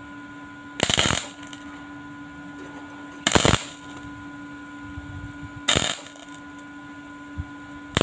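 Arc welding on stainless steel exhaust pipes: three short crackling welding bursts about two and a half seconds apart, with a fourth starting at the end, over a steady electrical hum.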